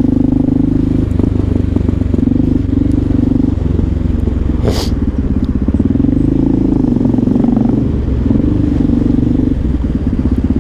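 Motorcycle engine running while riding in traffic, its note dipping and rising again a little past halfway with throttle changes. A short hiss cuts through about halfway.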